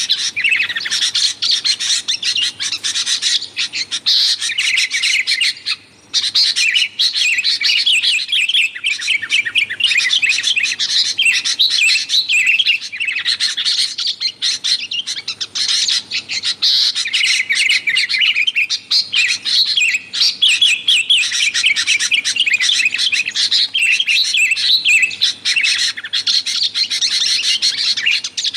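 Sooty-headed bulbuls (kutilang) calling noisily without let-up, a busy chatter of fast, high, repeated notes, with a brief pause about six seconds in.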